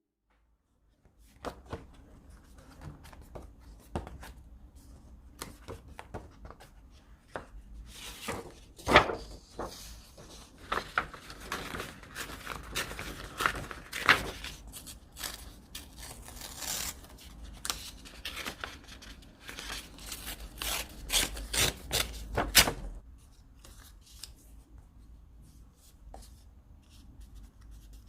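Paper and stationery being handled: crisp rustling, rubbing and small taps and clicks, busiest through the middle and quieter in the last few seconds.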